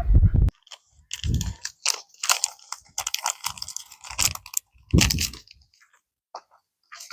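Close-up chewing and crunching of sushi with a crispy topping, in irregular short bursts with quiet gaps between them. A low wind rumble on the microphone stops abruptly about half a second in.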